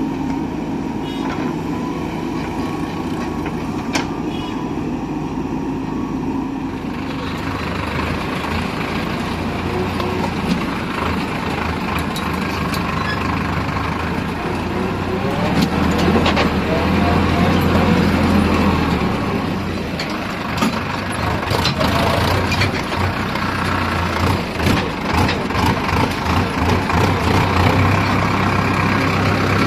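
Heavy diesel machinery running and working, with a steady low engine hum that gets louder and busier from about a quarter of the way in. Scattered sharp metallic knocks come through in the second half.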